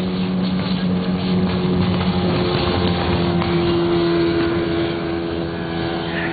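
Outboard motor running steadily at speed, with the hiss of water and wind. Its note shifts about two and a half seconds in.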